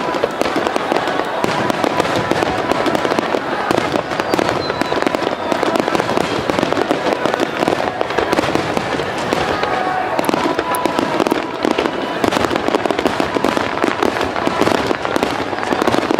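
Underwater fireworks bursting in dense, rapid succession: a continuous loud crackling and popping with no pause.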